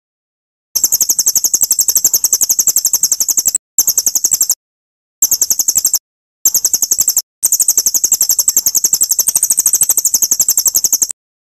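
Cililin bird's very high-pitched trill, a rapid even run of about a dozen notes a second, in five stretches broken by abrupt silent gaps. It is played as masteran, a tutor recording for teaching a murai batu (white-rumped shama) to copy the call.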